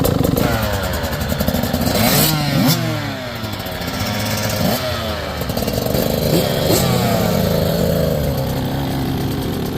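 Dirt bike engines revving, with several overlapping engine notes rising and falling in pitch as the bikes change speed.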